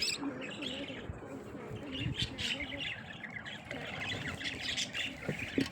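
Small pet birds chattering softly, with scattered short chirps and quiet warbling.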